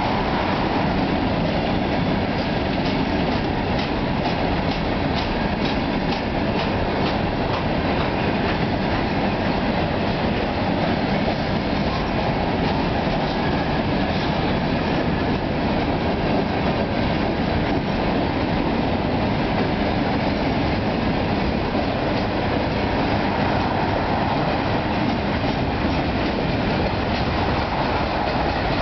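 Freight cars rolling past at steady speed: a continuous rumble of steel wheels on rail, with clicking as the wheels cross rail joints, clearest in a run of sharp clicks a few seconds in.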